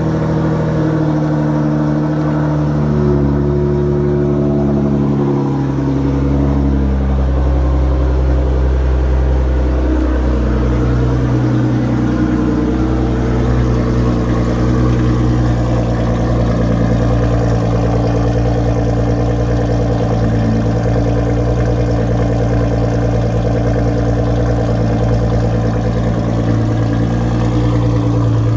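Nissan GT-R R35's twin-turbo V6 idling through an open 4-inch exhaust with no mufflers, just after a cold start. Its idle speed shifts up and down for the first dozen seconds or so, then settles to a steady idle.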